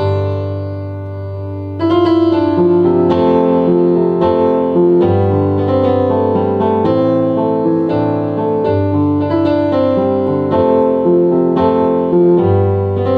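Piano playing a melody over sustained bass notes. A held chord fades for about two seconds, then the playing picks up louder and carries on.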